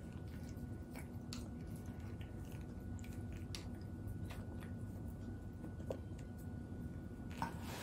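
Faint, scattered soft clicks and smacks of a baby chewing food, over a low steady room hum.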